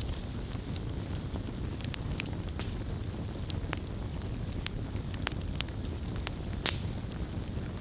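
Wood campfire crackling: irregular sharp snaps and pops over a steady low rumble, with one louder pop near the end.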